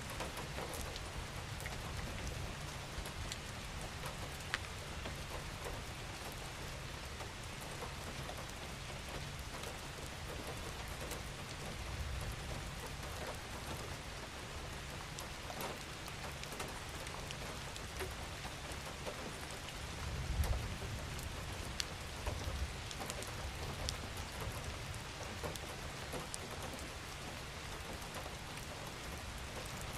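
Steady gentle rain falling, an even hiss with individual drops ticking sharply here and there. A low rumble swells briefly about two-thirds of the way through.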